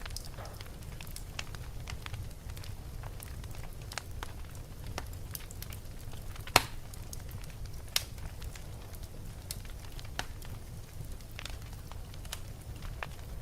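Wood fire burning in a fireplace: a low steady rumble of flame with scattered crackles and sharp pops, the loudest pop about six and a half seconds in and another about eight seconds in.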